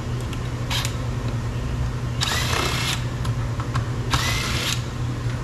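Power drill/driver backing out screws in two short runs of under a second each, each spinning up with a rising whine, with a brief blip of the motor before them. A steady low hum runs underneath.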